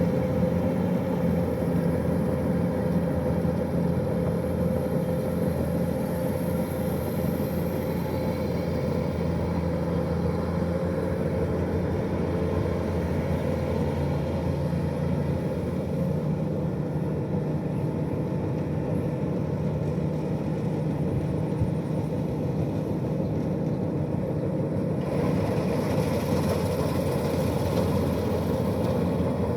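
Kubota DC-105X combine harvester's diesel engine running steadily. About 25 seconds in, the sound turns brighter, with more hiss over the engine.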